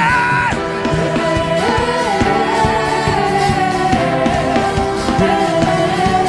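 Gospel worship music: a lead voice sings long held, gliding notes over sustained keyboard-like chords and a steady beat.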